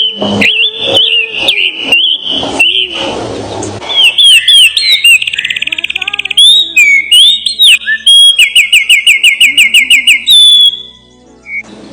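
Small birds singing and calling with whistled notes, sweeping chirps and rapid trills, one trill about seven notes a second. There is a brief pause near the end.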